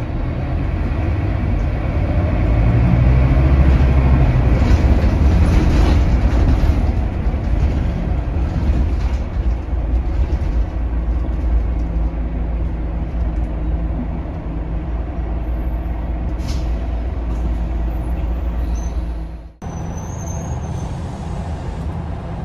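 Scania K280UB bus's five-cylinder Scania DC9 diesel heard on board, pulling hard and rising in pitch for a few seconds, then running steadily with road noise. The sound breaks off for an instant near the end and carries on.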